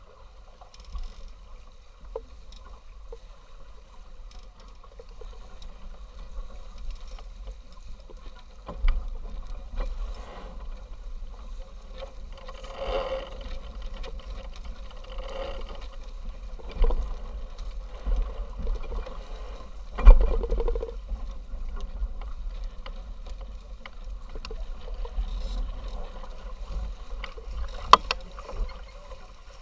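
Sailing yacht under way in a race: a steady rush of wind and water, with several sharp knocks and thumps from the boat, the loudest about two thirds of the way through.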